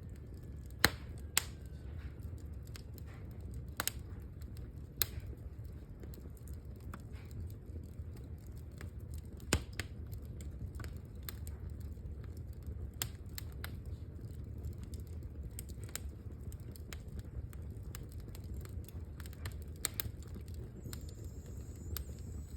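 Wood fire crackling: irregular sharp pops and snaps over a low, steady rumble of burning. A few louder pops stand out, two about a second in and one about ten seconds in.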